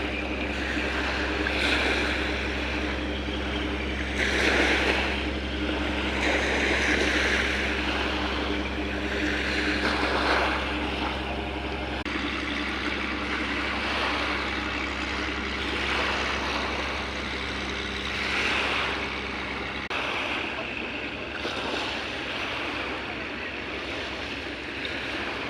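Motorboat engine droning steadily, with water rushing and splashing in swells.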